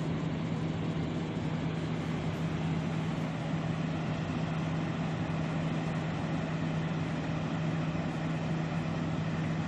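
A steady mechanical drone, like a running vehicle engine: a constant low hum over an even hiss, unchanging throughout.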